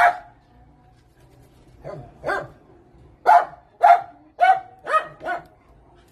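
A dog barking: one bark, a pause of nearly two seconds, then a run of about seven short barks roughly half a second apart.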